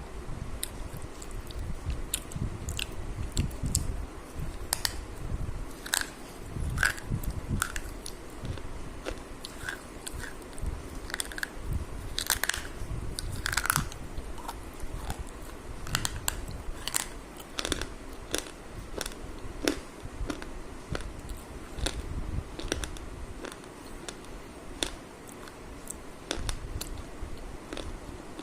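Close-up eating sounds: a person biting and chewing food, with irregular crunchy clicks throughout.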